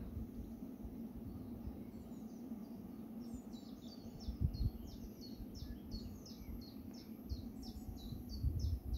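A songbird singing a regular run of short, high, downward-sweeping chirps, about two a second, starting about three seconds in, over a low steady rumble with a couple of soft low thumps.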